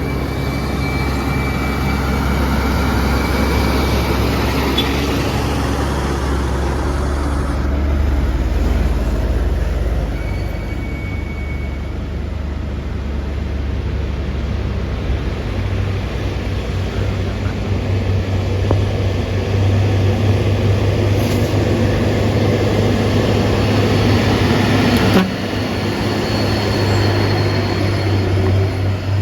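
Heavy truck's diesel engine working hard up a steep climb, a steady low drone whose pitch shifts twice as the load or gear changes, with a brief drop in level near the end.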